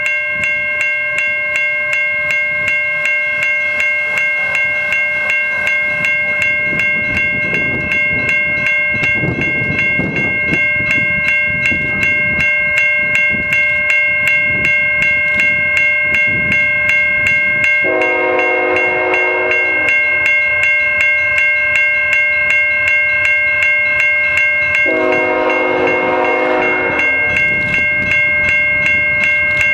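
A railroad crossing bell ringing in steady rapid strokes, as a CN freight train's diesel locomotive sounds its horn in two long blasts, with the rumble of the train beneath.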